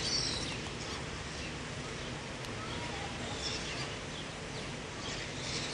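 Outdoor ambience with faint, scattered bird chirps.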